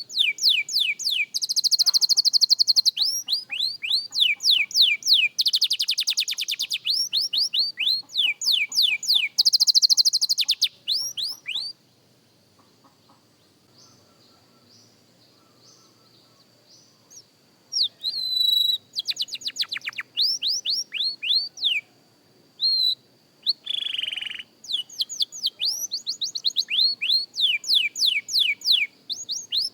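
Young canary singing: fast runs of repeated down-sweeping whistled notes and buzzy rolls. It stops for about five seconds partway through, then starts up again.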